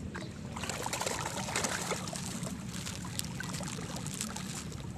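Water splashing and sloshing, with a busy flurry of splashes in the first half, then scattered ones, over a steady low hum.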